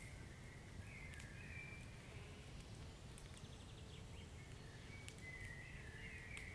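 Wood fire burning in a fireplace: a low steady rumble of the flames with sparse crackles and pops. A wavering high whistle comes and goes, loudest near the start and again near the end.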